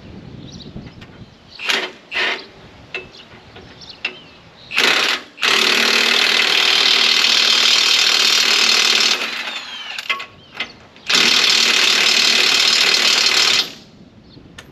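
Impact wrench hammering bolts tight on the loader mounting bracket: a few short blips, then two long runs of about three and a half and two and a half seconds.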